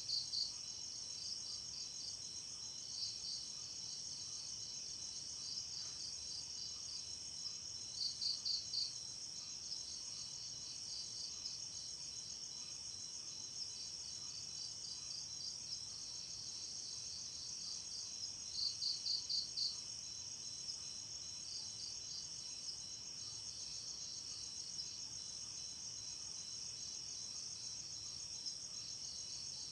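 Night insects: a steady, dense high-pitched trill of crickets, with a nearer cricket chirping in short groups of quick pulses every few seconds, loudest about 8 and 19 seconds in.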